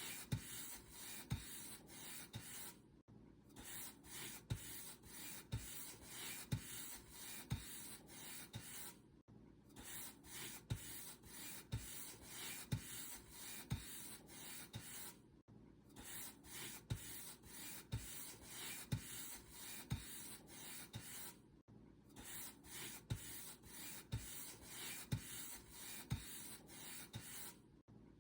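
Paint brush stroking back and forth over a surface, a steady rhythm of short bristle swishes broken by a brief pause about every six seconds.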